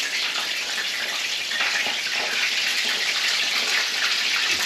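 Panko-breaded flounder fillets frying in hot oil in a stainless steel skillet: a steady, dense sizzle.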